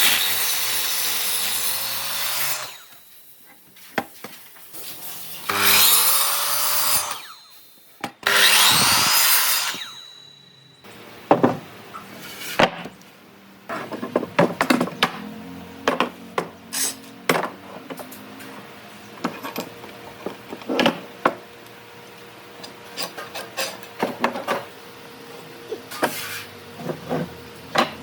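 A woodworking power tool runs in three bursts of about two seconds each, cutting wood. After that come irregular knocks and taps as wooden pieces are handled and worked.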